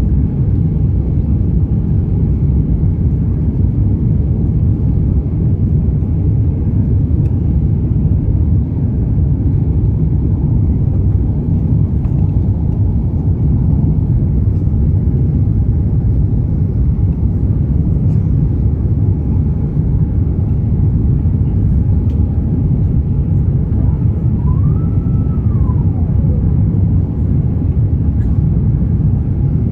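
Steady low rumble of an Airbus A350-900 heard from inside the passenger cabin, with no change in level. Near the end a faint whine briefly rises in pitch, holds and falls away.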